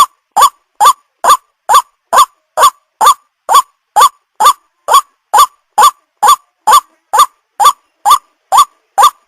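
White-breasted waterhen (Amaurornis phoenicurus) calling: a single short rising note repeated steadily, a little over two a second. This is the ruak-ruak lure call used to draw the birds in.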